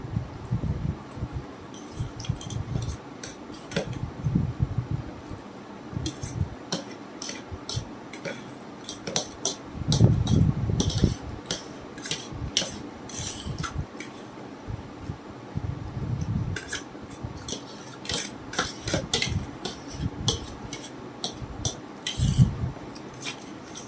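Egg chowmein being eaten: chewing close to the microphone, with frequent sharp clicks of utensils against plates and containers.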